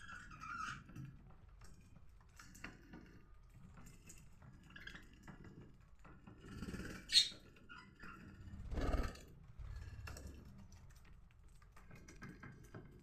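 Pet budgerigars chirping and chattering in short, scattered notes, with one louder, sharp call about seven seconds in.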